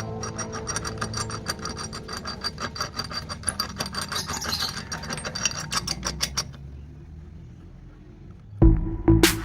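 Quick, repeated scraping strokes of a hand tool working a workpiece, like filing, which stop about six and a half seconds in. Loud music comes in near the end.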